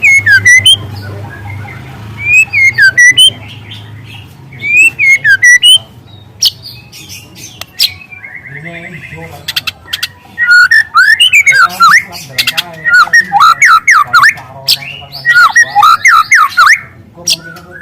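Juvenile white-rumped shama singing loudly: short repeated phrases of slurred whistles with rapid clicks in the first half, then from about ten seconds in a dense, fast run of chattering trills and whistles, the canary-like 'shots' of its song.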